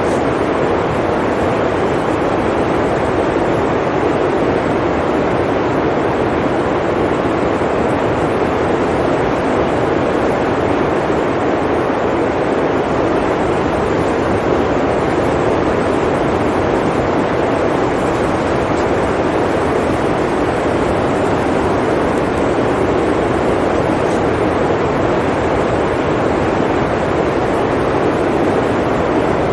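Blizzard wind blowing steadily: a constant, even rushing noise with no gusts or breaks standing out.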